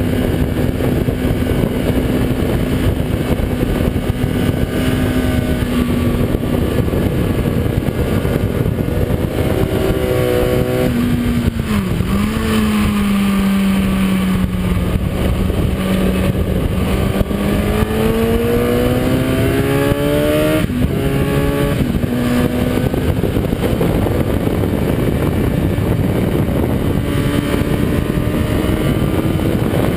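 Kawasaki ZX-10R inline-four engine heard from onboard the bike at speed, under a heavy rush of wind. The engine note holds steady, falls sharply as the bike slows about twelve seconds in, climbs steadily under acceleration, then drops in quick steps with upshifts about twenty-one seconds in before rising again near the end.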